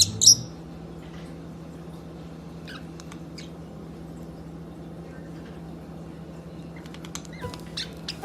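A pet bird gives two sharp, high chirps at the start, then a few faint short calls and clicks over a low steady hum.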